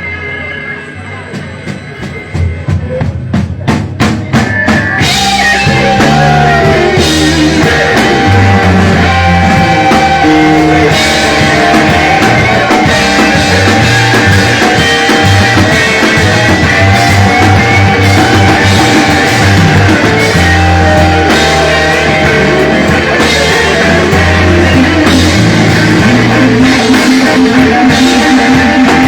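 Live electric blues-rock band: a drum roll speeds up over the first few seconds, then the full band comes in. Drums, bass and an electric lead guitar bending notes play loud and steady.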